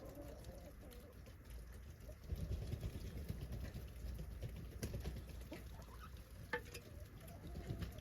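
Chickens: a few short clucks over scratching and pattering sounds, with a low rumble underneath.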